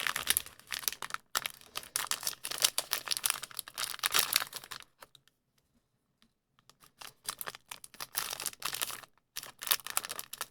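Plastic cookie wrapper being handled and torn open, crinkling and crackling, with a pause of about two seconds midway.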